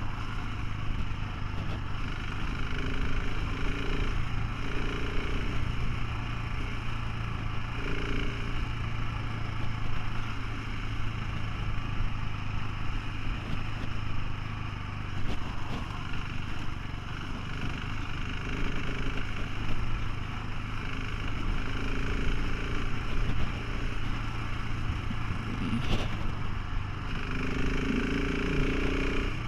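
Motorcycle engine running steadily on the move, a constant low hum under road and wind noise, with a brief click near the end.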